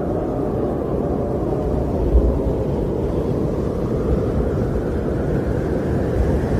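Wind blowing in a steady low rush that swells and eases slightly, with a brief low buffet about two seconds in.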